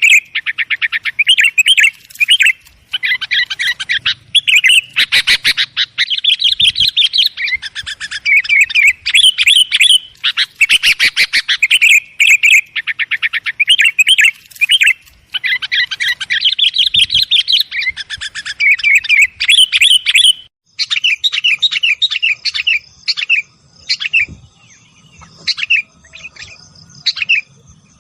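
Sooty-headed bulbuls (kutilang) calling noisily, a lure recording meant to draw in other bulbuls: dense, rapid chattering chirps and trills that thin out near the end to separate, spaced calls.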